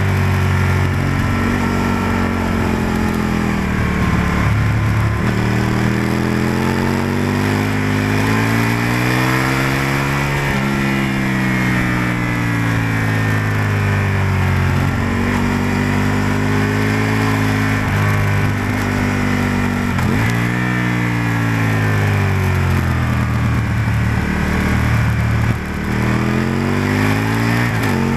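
Aprilia RSV-R's V-twin engine heard from on board at speed. The note climbs and falls over several seconds as the throttle opens and closes through the corners, with a sudden drop in pitch twice, over a steady rush of wind.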